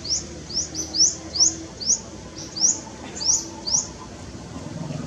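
A bird chirping repeatedly: short, high, rising chirps, about three a second, that stop about four seconds in. A low hum then grows near the end.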